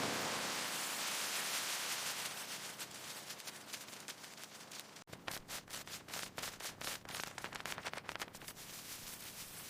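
A steady hiss of noise, then, from about halfway through, a run of irregular sharp crackling pops.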